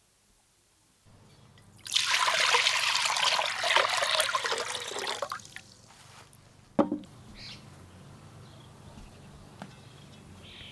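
Water pouring for about three and a half seconds, followed about a second later by a single sharp knock.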